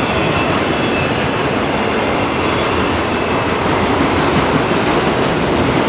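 Freight train cars rolling past on the rails, a steady loud rumble and rattle of wheels and cars.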